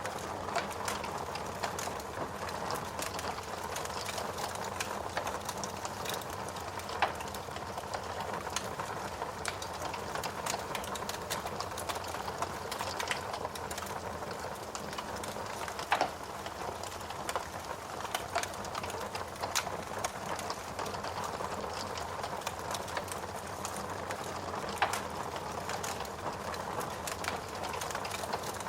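Fire burning in a fireplace: a steady crackling hiss with many small snaps, and a few louder pops spread through.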